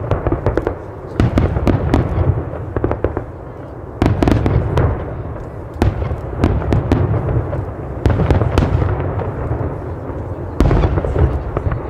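Fireworks display: about five deep booms of bursting shells, every two to three seconds, each followed by a trail of sharp crackling.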